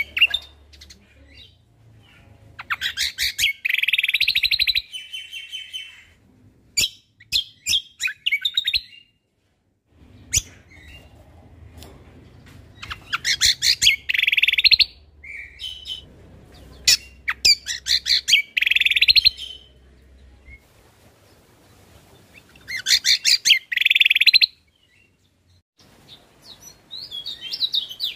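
Cucak kombo (kecial kombok) songbird singing in repeated bouts of rapid, chattering song, each lasting a second or two with short pauses between, the kind of burst-filled song used as a training recording for contest birds.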